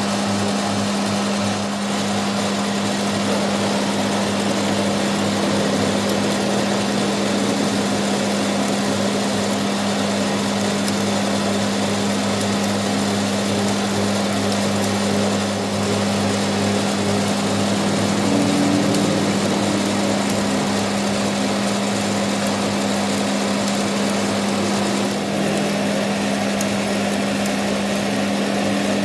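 Workshop machine running steadily, with a constant low hum and an even mechanical noise that stays level throughout.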